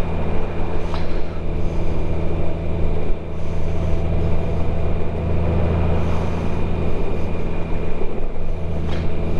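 Motorcycle engine running at a steady speed while riding, with a steady low hum and road noise. There are two faint clicks, about a second in and near the end.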